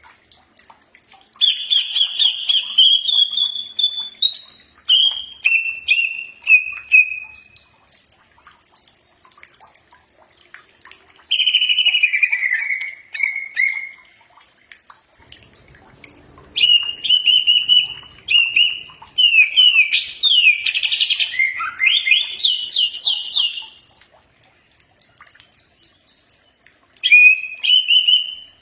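Cucak ijo (greater green leafbird) singing: four phrases of loud, rapid whistled notes, slurs and sweeps, separated by pauses of a few seconds. The longest and busiest phrase comes about two-thirds of the way in.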